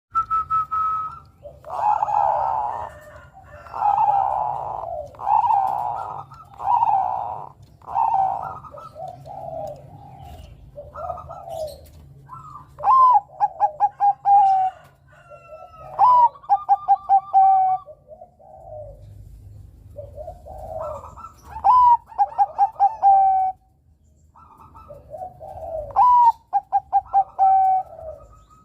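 Zebra dove (perkutut) of the Thai 'Bangkok' song line cooing. It starts with a run of short, even coos about one a second, then gives four full song phrases every few seconds, each a rising note followed by a quick stuttering trill. A faint low hum runs underneath.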